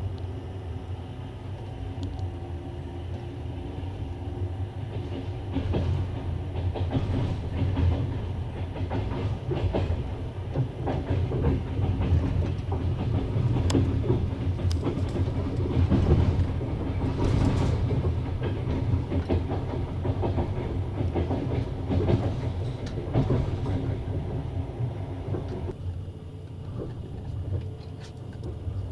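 Passenger train running along the track, heard from on board: a steady low rumble with the clickety-clack of wheels over rail joints and switches. The clatter grows busier and louder from about six seconds in, peaks around the middle, and eases near the end.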